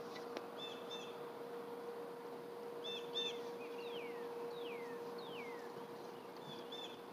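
Songbirds calling: short paired chirps several times, and three quick whistled notes falling in pitch in the middle. Under them runs a faint steady hum.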